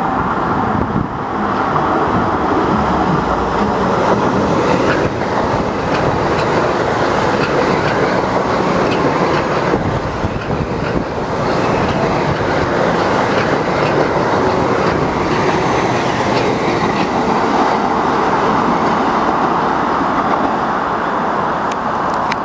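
Metro-North commuter train passing on the rails: a steady, loud rumble of wheels on track.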